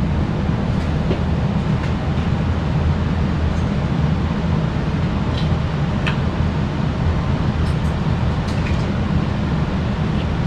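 Steady low rumble of a running machine, even in level throughout, with a few faint light clicks and taps above it.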